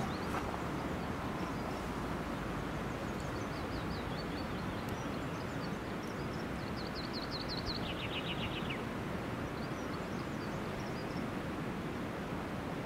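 Steady outdoor background hiss with a small songbird singing: a few faint high chirps, then about halfway in a quick trill of high notes that drops to a lower pitch partway through.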